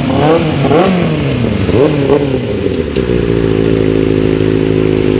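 Superbike engine revved in several quick throttle blips, its pitch sweeping up and falling back, then holding a steady note from about three seconds in.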